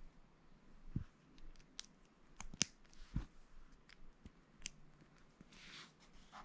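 Plastic Lego pieces being handled and snapped together: scattered light clicks and taps with a few duller knocks, the sharpest click about two and a half seconds in, and a brief rustle near the end.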